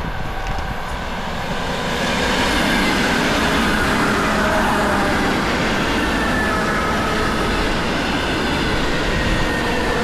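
Loud, steady rumbling and rushing noise that swells about two seconds in and holds, with faint high whining tones drifting through it.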